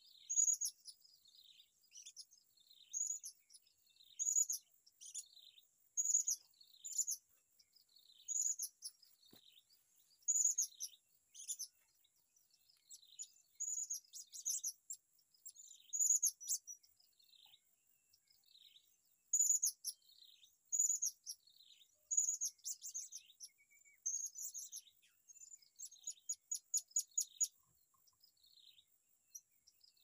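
A small bird calling with sharp, high chirps that fall in pitch, about one a second, breaking into a quick run of rapid notes near the end.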